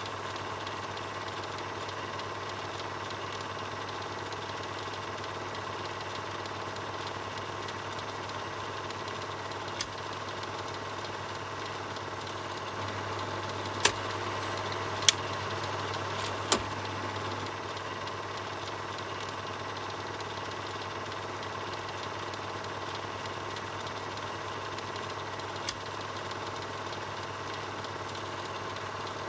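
Film projector running steadily, a mechanical whir over a low hum. A few sharp clicks cut through it, three of them close together in the middle.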